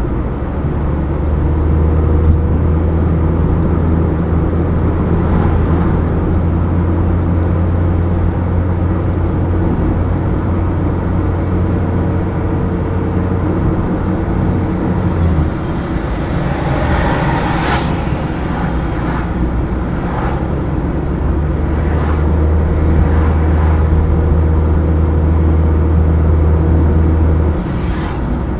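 A car driving along a highway: its engine hums steadily under road noise. The hum drops away about halfway through, returns later, and drops again near the end. There is a short rattle of clicks just after the middle and a few single sharp knocks.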